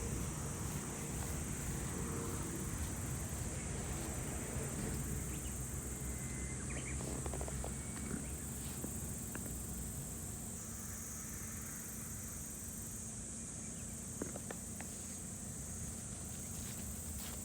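Insects chirring outdoors in a steady, continuous high-pitched drone, over a low rumble, with a few faint clicks scattered through.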